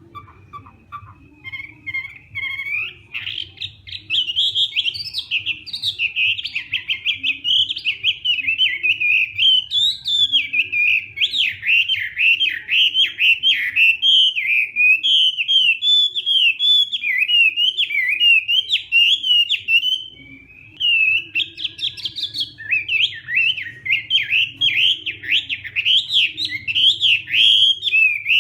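Chinese hwamei (laughingthrush) singing its loud challenge song: a fast, unbroken run of whistled phrases that swoop up and down. It builds up over the first few seconds and breaks off briefly about two-thirds of the way through.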